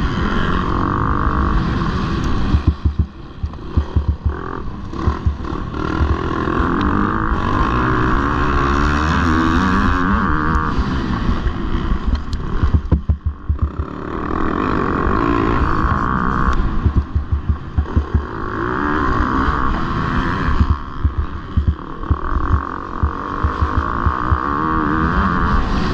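MX2 motocross bike engines revving hard through a race, the pitch rising and falling again and again with throttle and gear changes. The sound is broken by choppy, sharp drops where the throttle is chopped.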